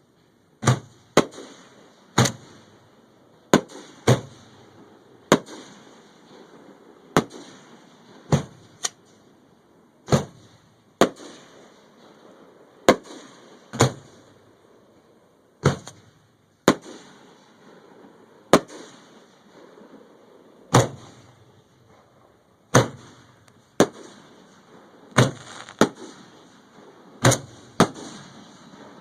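Fireworks going off in a run of sharp, single bangs, about one a second at uneven intervals, each with a short echoing tail.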